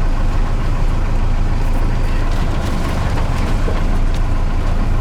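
Ford F-150 pickup with a Cummins 4BT four-cylinder diesel driving slowly along a rough forest track: a steady low engine drone with road noise and a few faint clicks.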